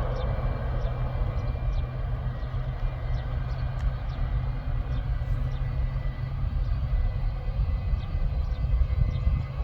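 Aircraft engines running: a steady low rumble with a faint, even high whine.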